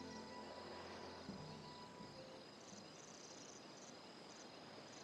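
Faint insects chirping in the bush, in short high-pitched pulsed trills over a steady background hiss, as the last of the background music fades away in the first second or so.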